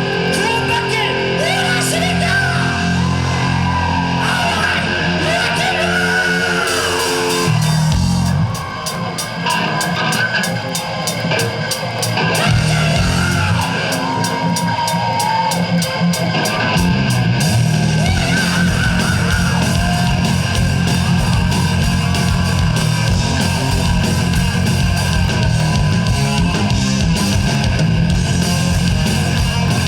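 Live rock band playing loud, heavy guitar-driven music, with yells over the opening seconds. The music eases off briefly about eight seconds in, then the full band comes back in.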